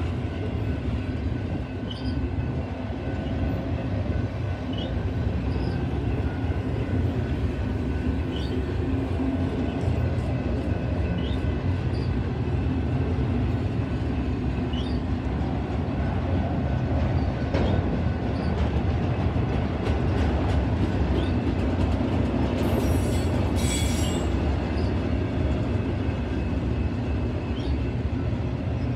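Freight train of multilevel autorack cars rolling steadily past at a grade crossing: a continuous low rumble of wheels on rail and rattling car bodies. A brief high-pitched screech comes about three quarters of the way through.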